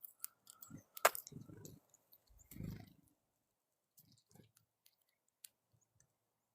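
Squirrel feeding on seed from a hand: a sharp click about a second in, then low muffled rustles twice and a few faint ticks, fading to near silence in the second half.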